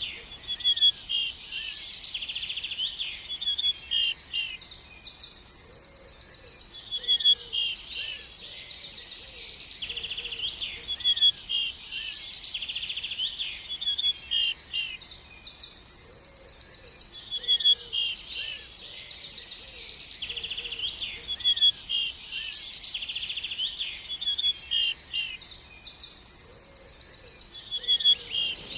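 Songbirds singing: short chirps mixed with fast, buzzy trills, the same run of phrases coming round again about every ten seconds.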